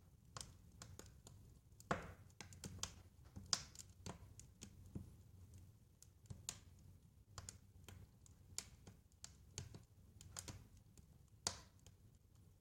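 Wood fire crackling in a fireplace: irregular sharp pops and snaps, a few a second, over a soft low rumble of the flames. The loudest pops come about two seconds in, about three and a half seconds in, and near the end.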